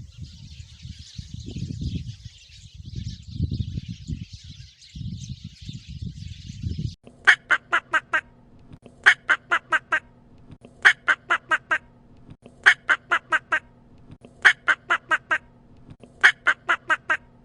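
For about the first seven seconds there are low rumbling bursts under a steady high hiss. Then a duck starts quacking in runs of about five quacks, one run every couple of seconds.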